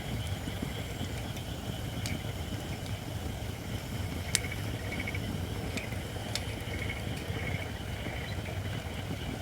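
Wood fire of Japanese white oak logs burning, with a steady low rumble and a few sharp crackles, the loudest pop a little under halfway through.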